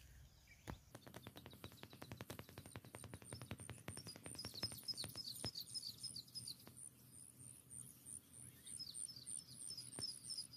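Faint birdsong: a high chirp repeated evenly, with two bursts of short, falling calls. A quick run of faint clicks fills the first half.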